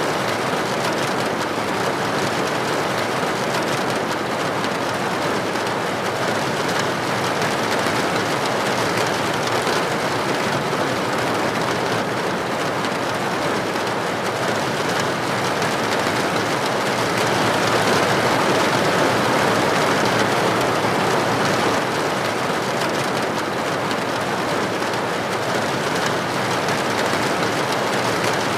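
Steady rain falling, an even hiss of many drops, swelling a little louder for a few seconds past the middle.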